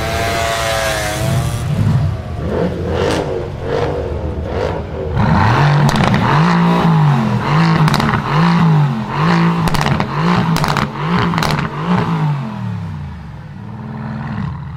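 Mercedes engine with a very loud exhaust being revved hard in quick blips, about seven rises and falls in a row from about five seconds in, with sharp cracks from the exhaust between revs.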